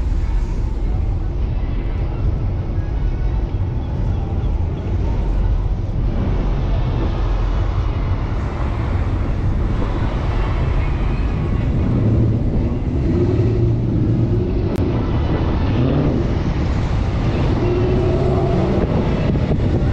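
The 5.7-litre Hemi V8 of a 2015 Dodge Challenger R/T running at low speed in city traffic: a steady low rumble from the engine and exhaust, with road and wind noise on top.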